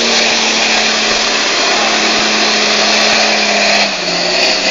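Off-road 4x4 engine held at high, steady revs as the vehicle works through deep mud, easing off about four seconds in.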